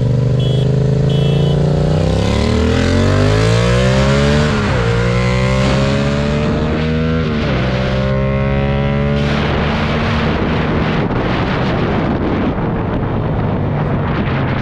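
Yamaha MT-07 parallel-twin engine accelerating hard through the gears: the revs climb, drop sharply at upshifts about four and a half and seven and a half seconds in, then hold while rising wind noise over the microphone takes over.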